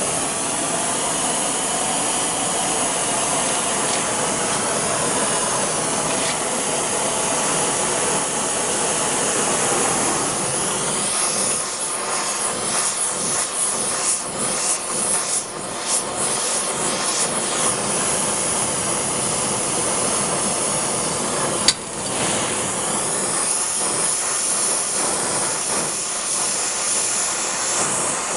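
Gas torch flame hissing steadily while brazing threads onto a steel knife tang. The hiss wavers in the middle, and there is a single sharp click about 22 seconds in.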